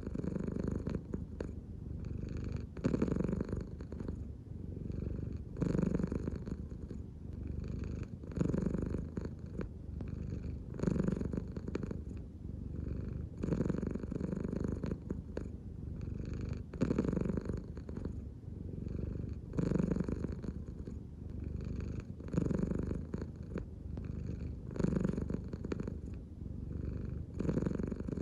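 American Shorthair cat purring steadily, the purr swelling and easing with each slow belly breath, about every two and a half to three seconds.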